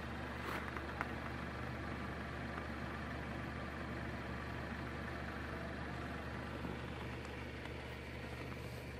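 Car engine idling steadily, a constant low hum, with a couple of brief clicks about a second in.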